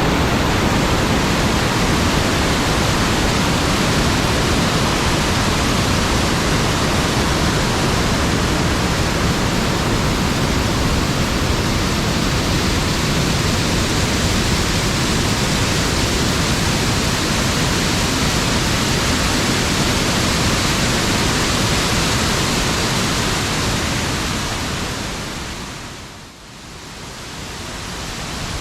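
Waterfall rushing in a steady, loud roar of falling water. The flow is running high, which he puts down to a lot of recent rain. The sound fades down sharply near the end and then comes back up.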